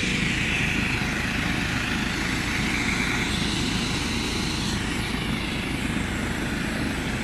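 Helicopter running on the ground, a steady rotor and engine noise with a fast low pulsing.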